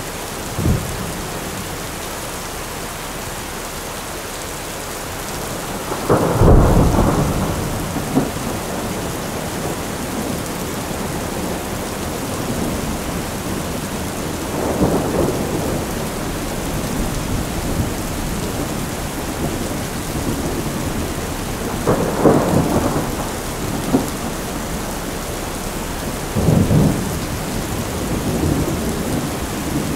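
Steady rain falling through a thunderstorm, with thunder rumbling several times; the loudest rumble comes about six seconds in.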